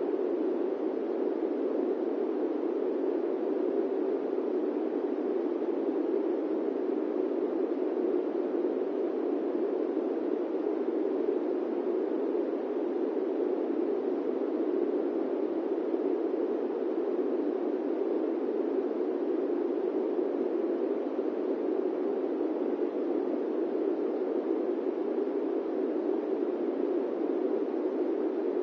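Steady airplane-cabin white noise: an even, unchanging rush with no tones, breaks or events, its energy in the low middle and little deep rumble.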